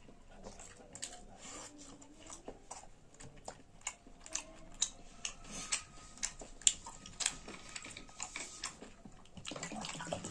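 Close-miked eating: irregular, sharp clicks of chewing and mouth noises as food is chewed.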